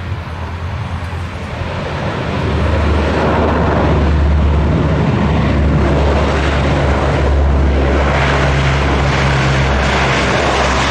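Military aircraft engines droning loudly as the aircraft passes, growing louder about two seconds in and then holding steady with a deep low hum.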